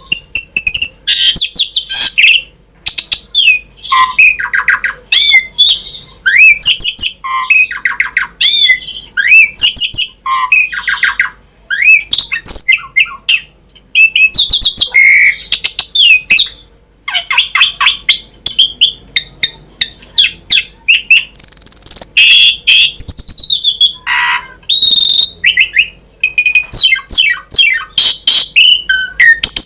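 Asian pied starling (jalak suren) singing a long, varied song: whistled glides, harsh squawks and fast runs of repeated chattering notes, packed closely with only brief pauses.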